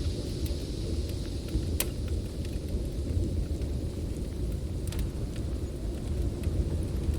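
Snowstorm wind blowing as a steady deep rumble, with a wood fire crackling over it in scattered sharp pops, the loudest about two seconds in.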